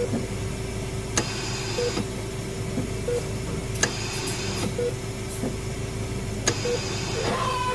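Hospital ambience sound effect: a steady hum under a sharp click about every two and a half seconds, each click followed by a brief hiss, with short beeps at uneven intervals.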